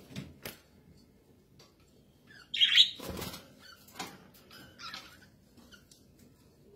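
Pet budgerigars chirping, with one loud harsh chirp about two and a half seconds in, followed at once by a short burst of wing fluttering. Small scattered clicks come in between.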